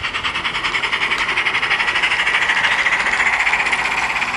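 Sound card of a radio-controlled Gauge 1 J94 model steam locomotive playing rhythmic, hissy exhaust chuffs as the engine moves off slowly under inertia control. The beats quicken and grow louder as it picks up speed.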